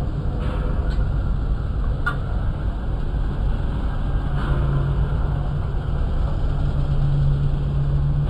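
Tractor engine running steadily, with a low hum that grows stronger about four seconds in and a few light clicks over the rumble; the tractor has a balancer problem.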